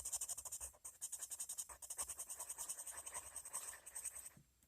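Coloured pencil shading on paper: quick back-and-forth scratching strokes, several a second, stopping shortly before the end.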